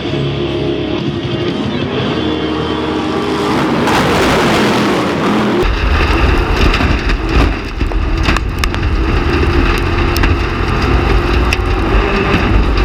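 Background music, then from about six seconds in the loud low rumble of off-road race trucks running hard on a dirt track, with sharp crackles over it, while the music carries on underneath.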